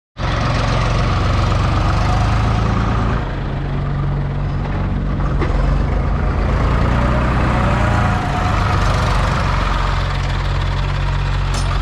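Diesel engine running steadily, its note shifting slightly about three and eight seconds in.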